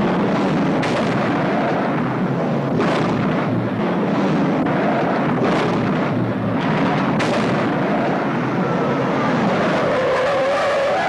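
V8 muscle cars running hard at full throttle, broken by several heavy thumps as they land over hill crests. Near the end the tires begin to squeal.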